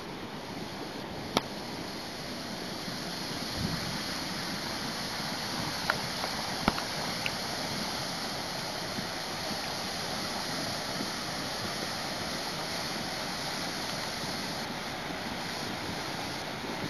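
Steady rushing noise of a car driving on rain-soaked roads: tyre spray and rain on the car, with a few sharp ticks, the loudest about a second in and two more near the middle.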